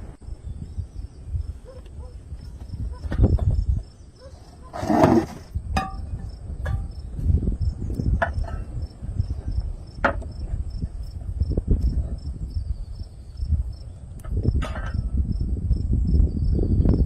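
Insects chirping steadily in the background, a high, evenly pulsed trill, under low rumbling and scattered knocks and clicks, with a brief rush of noise about five seconds in.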